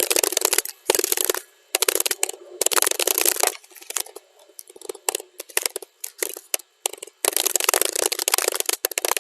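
Computer keyboard typing, played at double speed: rapid runs of key clicks in bursts, thinning to scattered keystrokes with short pauses in the middle, then a dense, unbroken run from about seven seconds in.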